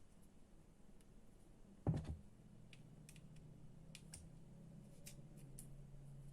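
Small parts being handled on a workbench: one sharp knock about two seconds in, then faint scattered clicks.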